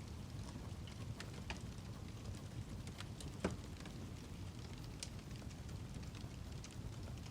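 Wood fire burning, with irregular sharp crackles and pops over a steady low rumble; one louder pop comes about three and a half seconds in.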